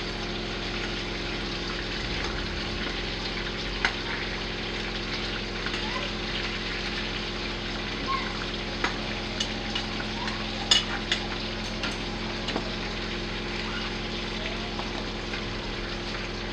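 Chicken pieces frying in hot oil in a metal pan over a charcoal brazier, a steady sizzle, with a few sharp clinks of the metal spoon against the pan as the pieces are stirred.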